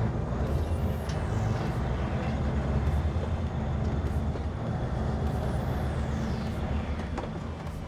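Scania 143's V8 diesel engine running steadily at low revs while the truck is manoeuvred, a low, even sound that eases slightly near the end.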